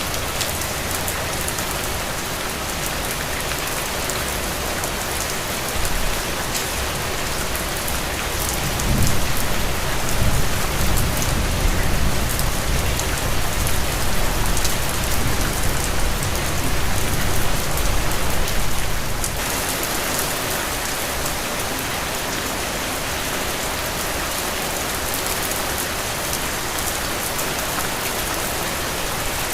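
Heavy rain falling steadily. A long, low roll of thunder swells in about nine seconds in and fades out about ten seconds later.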